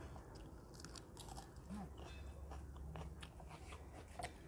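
Close-up eating sounds: chewing a mouthful of rice and chicken curry eaten by hand, with small wet clicks and light crunches, while fingers mix rice in a metal plate.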